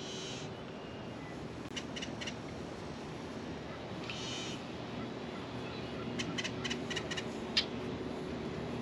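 Birds calling, once at the start and again about four seconds in, with a quick run of sharp clicks near the end, over steady open-air background noise.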